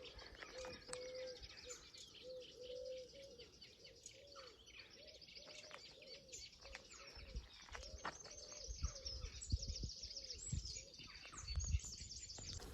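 Outdoor birdsong: many small birds chirping and trilling, with a pigeon cooing low, repeated notes throughout. A few soft low thumps come near the end.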